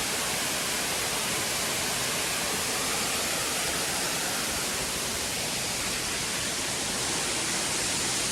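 A waterfall about 18 metres high, running with a lot of water in the rainy season, rushing steadily: a constant, even hiss of falling water with no change in level.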